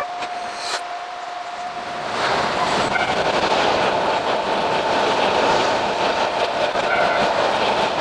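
Narrow-gauge electric train running on its track. A steady tone and low running noise give way about two seconds in to louder, steady running noise with a faint whine as the train gets moving.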